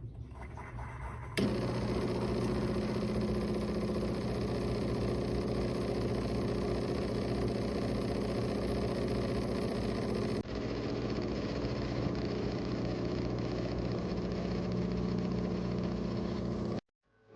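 De'Longhi TrueBrew coffee maker running a 3-ounce espresso brew cycle: a steady mechanical hum that starts suddenly about a second and a half in, changes and grows duller a little past the middle, and cuts off shortly before the end.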